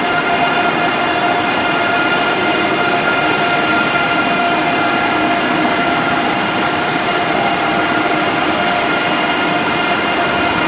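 Deutsche Bahn ICE 3 (class 403) electric high-speed train rolling slowly past along a station platform. Steady rolling noise with a steady high whine over it.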